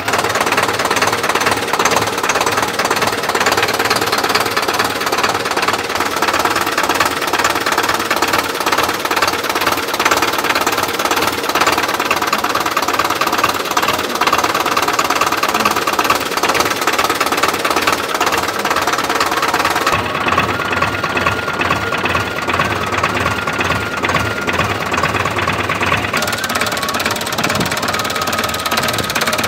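Sonalika Tiger 60 Max tractor's diesel engine running with a steady, fast knocking clatter. Its tone shifts a little about twenty seconds in.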